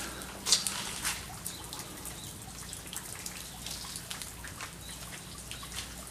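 Rainwater dripping and splashing: irregular drops and taps, the loudest about half a second in, over a low steady hiss.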